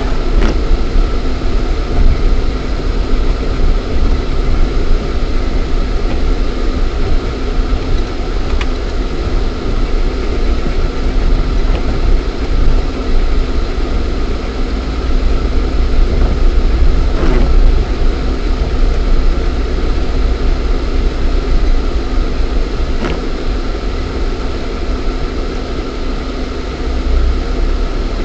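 Lada Niva 4x4's 1.7-litre four-cylinder petrol engine running under way, heard from inside the cabin with a heavy, steady rumble. A few brief knocks or rattles come through along the way.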